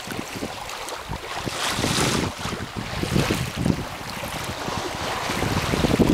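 Wind buffeting the microphone over water rushing and splashing along a sailing boat's hull, with a swell of spray-like hiss about two seconds in.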